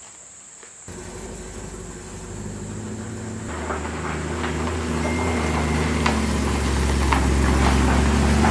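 BMW E92 M3's V8 engine running at low revs, coming in suddenly about a second in and growing steadily louder.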